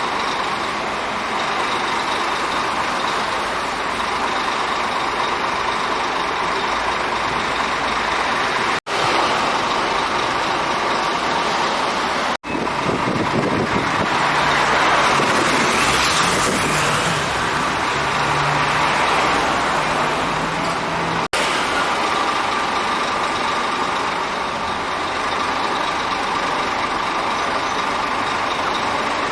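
Scania K440iB coach's diesel engine running steadily, with road-vehicle noise around it and a louder stretch in the middle. The sound breaks off for an instant three times.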